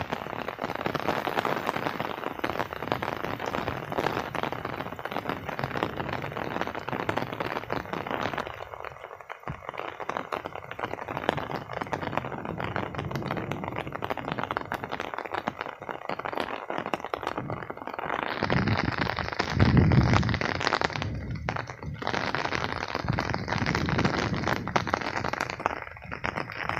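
Light rain pattering with fine crackles. About two thirds of the way through, gusts of wind buffet the microphone with a low rumble.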